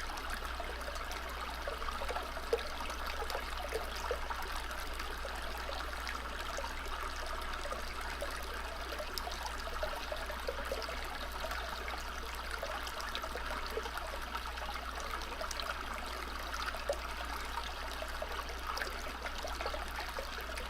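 Steady trickling and running water of a small stream, with a steady low hum underneath.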